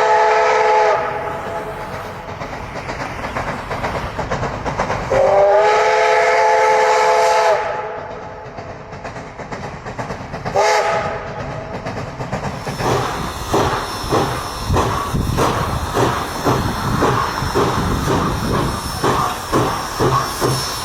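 Steam locomotive whistle sounding as a chord: a long blast at the start, a second long blast about five seconds in and a short toot near halfway. The locomotive then gets moving, its exhaust chuffing in an even rhythm of two to three beats a second over steam hiss.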